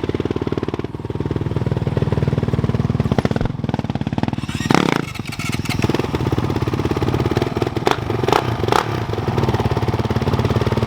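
Off-road motorcycle engine running close by, its level dipping briefly about a second in and again around five seconds in.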